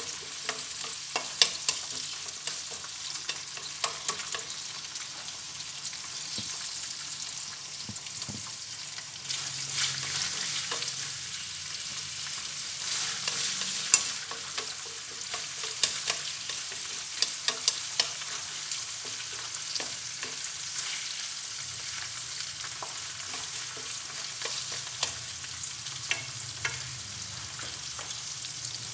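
Sliced lemongrass and ginger sizzling steadily in hot oil in a wok, stirred with chopsticks that click and scrape sharply against the pan every so often.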